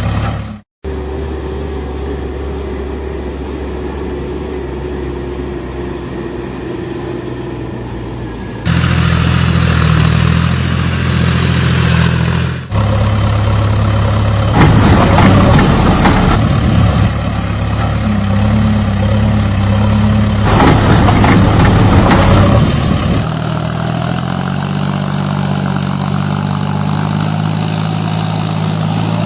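Heavy vehicle engine sounds, steady and humming, cut together in blocks. After a brief dropout near the start, the sound switches abruptly to a different engine sound four times.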